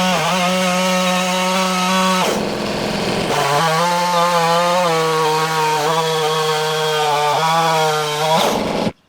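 Stihl MS660 two-stroke chainsaw on a chainsaw mill running at full throttle, ripping a rough 2x6 from a log cant. Its steady note wavers briefly about two seconds in, then runs on and cuts off abruptly near the end.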